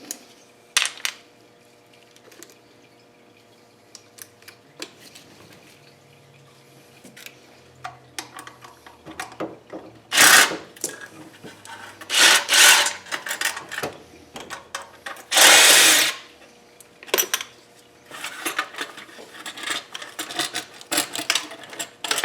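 A power tool run in three short loud bursts while bolts come off the engine, with scattered light ticks before them and quick metallic clicking and rattling near the end.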